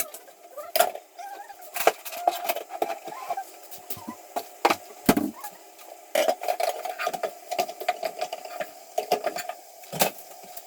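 Dishes and utensils clinking and knocking during food preparation, many separate sharp knocks over a steady hum.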